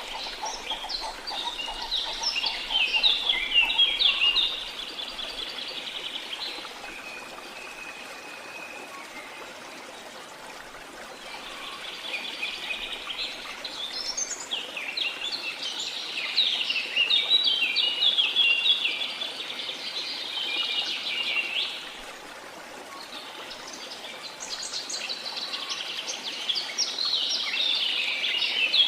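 Small songbirds chirping and singing in fast, dense phrases, in three long bouts with quieter gaps of a few seconds between them, over a steady wash of sea noise.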